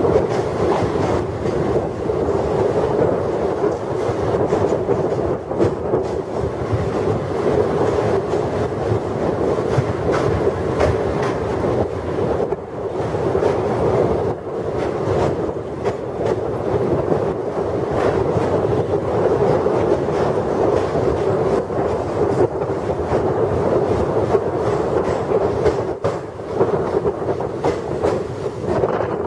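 Kumbha Express passenger train running across a steel truss rail bridge: a steady rumble of wheels on rails with irregular clickety-clack.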